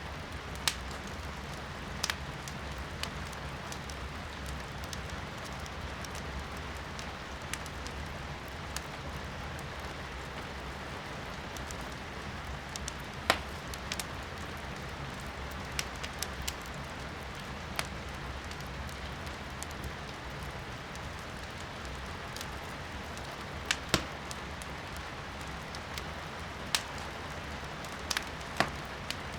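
Firewood burning in a fireplace, with sharp pops and crackles at irregular intervals over a steady hiss of rain. The loudest pop comes about halfway through, and several come close together near the end.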